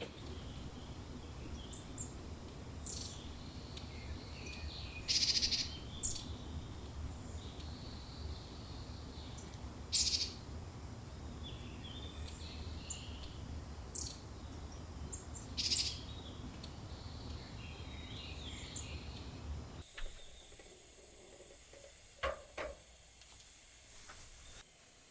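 Birds chirping and calling in short, repeated high calls over a steady background hiss. About 20 seconds in, the background suddenly drops away and a few soft knocks or clicks follow.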